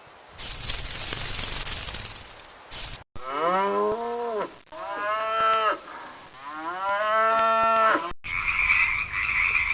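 A cow mooing three times in drawn-out, rising-then-falling calls. Before the calls there is a rough hiss, and near the end a steady chirring chorus takes over.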